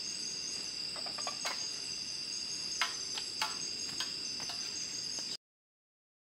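Steady high-pitched insect chorus of crickets, with a scattering of light clicks and taps over it; the sound cuts off abruptly about five seconds in.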